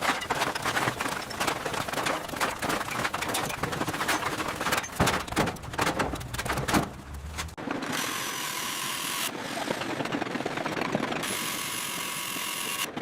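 Building work: rapid, irregular knocking and clattering for about seven seconds, then a steady high hissing machine noise that starts and stops abruptly twice.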